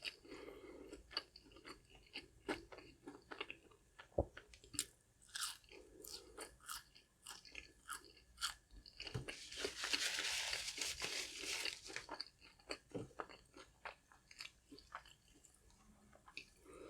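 Chewing and crunching of crispy fried fast food, with many short sharp crunches. About ten seconds in, a louder steady hiss lasts about two seconds.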